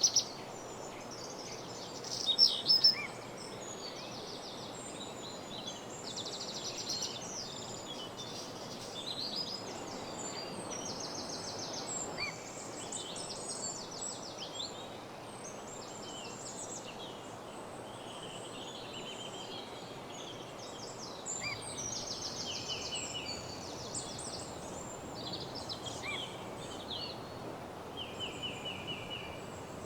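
Several songbirds singing and calling over each other, with many rapid trills, above steady faint background noise; the loudest calls come about two to three seconds in.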